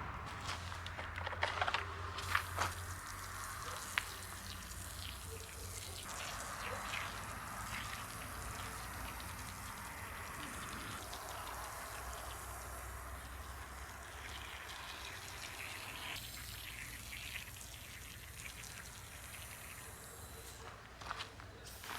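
Liquid being sprayed and running off while a car's plastic under tray is cleaned, a soft steady hiss with a few light clicks and knocks.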